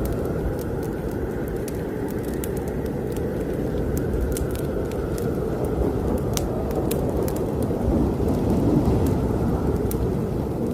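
Snowstorm wind rumbling steadily and low, rising a little near the end, with a fireplace fire crackling over it in many sharp, scattered pops.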